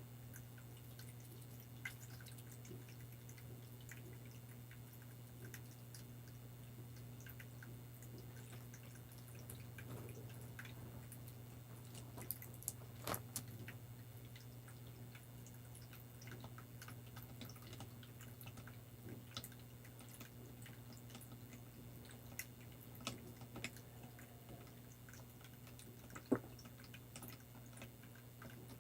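Faint water dripping, with scattered light clicks and taps over a steady low hum.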